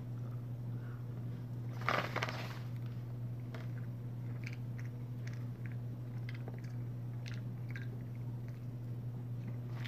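Close-up chewing of chocolate-covered cashews: one louder crunchy bite about two seconds in, then a run of small crunches as they are chewed, over a steady low hum.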